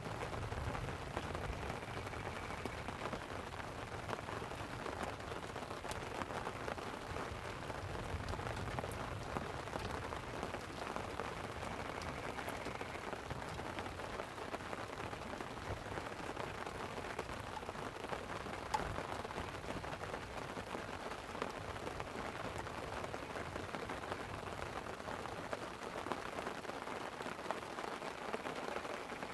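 Steady light rain pattering on a tent, with occasional sharp ticks. A low rumble of distant rolling thunder fades out over the first ten seconds or so.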